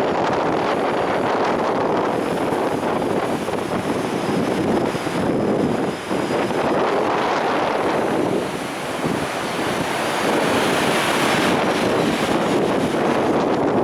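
Gale-force wind buffeting the microphone over heavy storm surf, a steady loud rush with brief lulls about six and nine seconds in.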